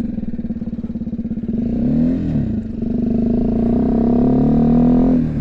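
BMW G310GS single-cylinder engine running at low speed with a fast pulsing putter. About two seconds in it briefly rises and falls in pitch, then runs steadily a little louder.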